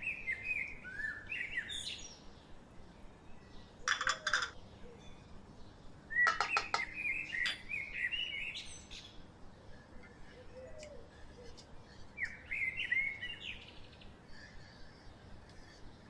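Small birds chirping in bursts of quick, rising and falling calls. Two short runs of rapid sharp clicks come about four seconds in and again about six seconds in.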